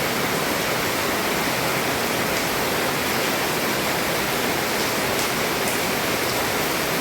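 Heavy rain falling steadily on a roof, an even hiss with no change in strength.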